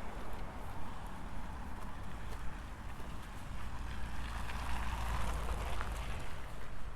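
A vehicle passing on a city street, its tyre and engine noise swelling through the middle and fading before the end, over a steady low traffic rumble. Faint footsteps crunch in snow.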